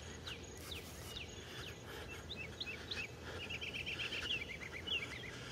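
Birds calling in the dark: a string of short, downward-sliding chirps repeated every half second or so, with a quick run of rapid notes a little past the middle, over a faint steady outdoor background.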